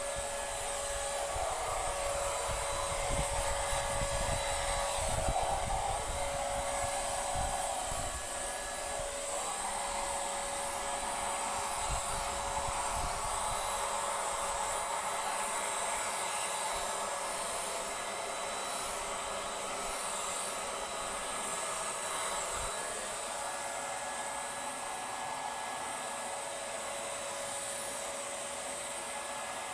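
Paint Zoom handheld electric paint sprayer running, a steady motor whine with hiss as it sprays. It is louder and more uneven over the first ten seconds, with a few low knocks, and then runs evenly.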